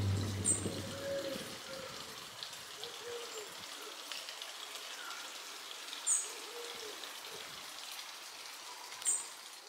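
Outdoor ambience of a steady faint hiss, with short high bird chirps about half a second, six and nine seconds in; background music fades out in the first second or two.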